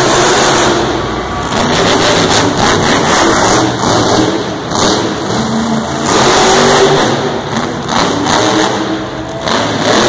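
Monster truck engine revving loudly, the engine note surging and easing off several times.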